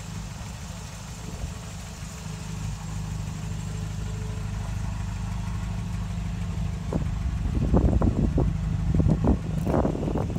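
Engine idling with a steady low hum. From about seven seconds in, a run of irregular knocks and rustles comes over it, louder than the engine.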